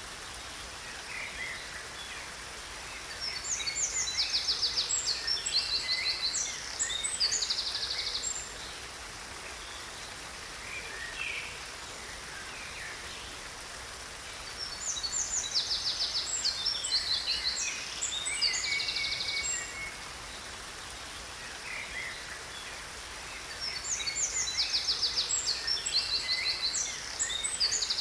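A songbird singing a long phrase of rapid trills and chirps three times, about every ten seconds, over a steady hiss of falling water.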